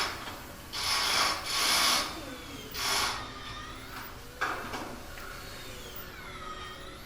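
Hand-tool work under the hood: four short scraping, rubbing strokes in the first three seconds, then quieter handling.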